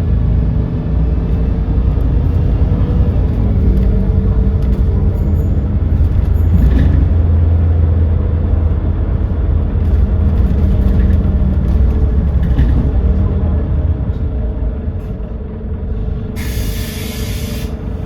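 Doosan GX12P natural-gas engine of an Edison Motors Smart 110G city bus running under way, a steady low drone that grows stronger mid-way and eases off later. Near the end comes a short hiss of compressed air from the bus's air system, about a second long.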